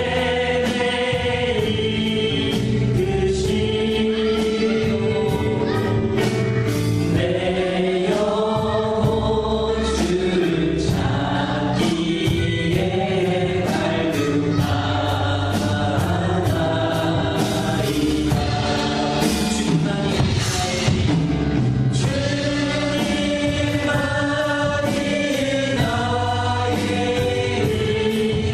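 Choir singing a gospel praise song over instrumental backing with a steady beat.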